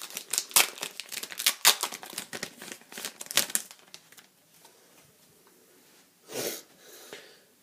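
Foil wrapper of a Pokémon booster pack crinkling and tearing as it is opened, a dense run of crackles for about four seconds. It then goes quieter, with one short burst of noise near the end.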